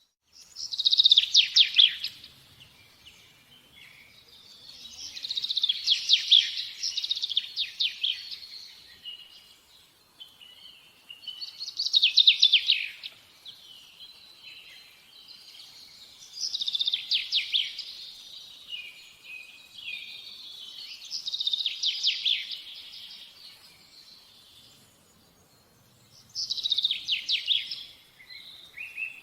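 A songbird singing about six phrases, each a quick, high-pitched run of notes lasting one to two seconds, repeated roughly every five seconds, with softer chirps in between.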